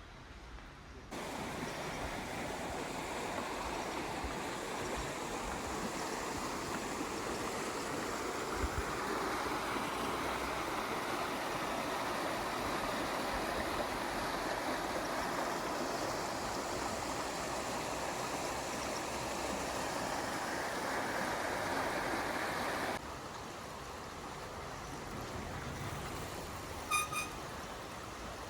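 Steady rushing of flowing water, as from a stream or small weir. It cuts in suddenly about a second in and cuts off abruptly near the end, leaving quieter outdoor ambience with a brief chirp.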